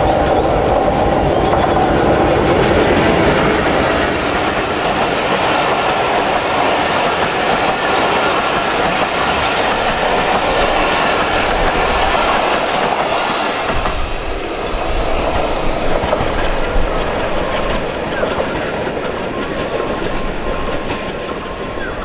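Diesel locomotive and its InterCity passenger coaches running through at speed without stopping: a steady, loud noise of engine and wheels on the rails. It is loudest in the first few seconds as the locomotive comes past, and eases slightly as the coaches draw away.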